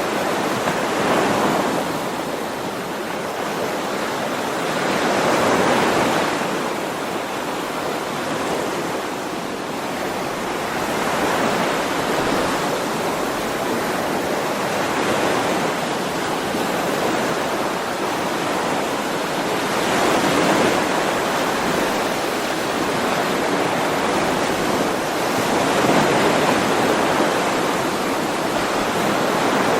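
Ocean waves breaking and washing on the shore, a steady rush of surf that swells and eases every few seconds.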